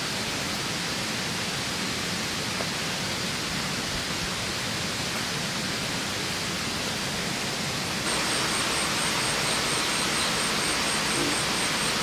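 Steady rushing noise of heavy rain and running water. It gets a step louder about eight seconds in, and from then a faint, high chirp repeats about four times a second over it.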